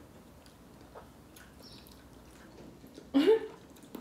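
Soft eating sounds of ripe mango being chewed, with faint mouth clicks. About three seconds in comes a short voiced "mm" that rises in pitch, the loudest moment.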